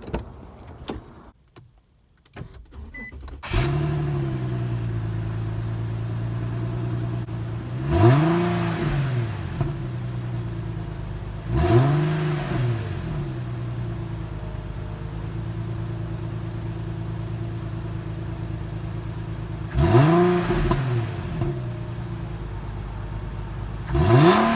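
Infiniti G37's 3.7-litre V6 on its stock exhaust, cold-started about three and a half seconds in. It settles into a steady idle and is revved four times, each a quick rise and fall in pitch.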